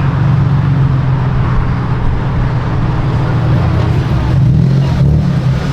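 Car engine running steadily, a loud low drone.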